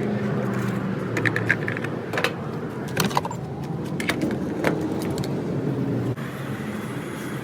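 Vehicle engine idling with a steady low hum, with keys jingling about a second in and a few sharp clicks and knocks over it.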